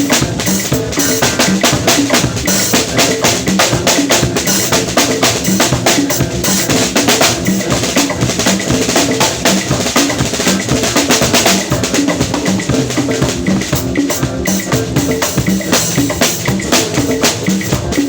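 A drum kit played in a steady, busy groove: bass drum, snare and rimshots, with pitched instrument notes underneath.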